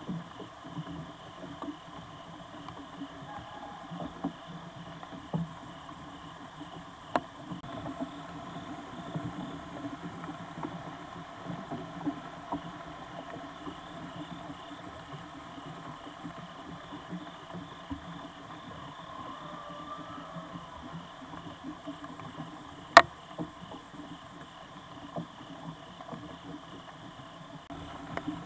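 Outdoor night ambience in light rain, picked up by a trail camera: a steady hiss with scattered drip ticks, and one sharp click about two-thirds of the way through.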